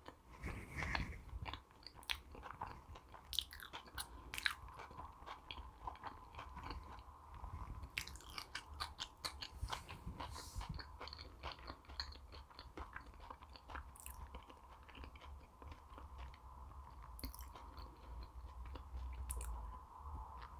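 A person chewing food close to the microphone, with many small wet mouth clicks and soft crunches at an irregular pace.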